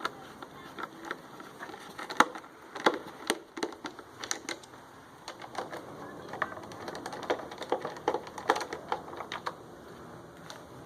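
Irregular clicks, taps and knocks of hand tools and small screws against the generator's casing as screws are taken out, with a sharp knock about two seconds in.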